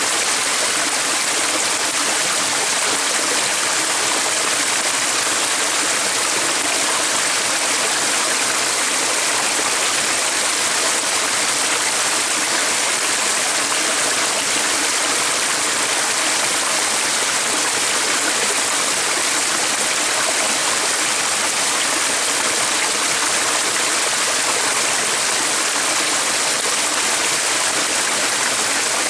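Running water flowing steadily, an even rushing sound with no breaks.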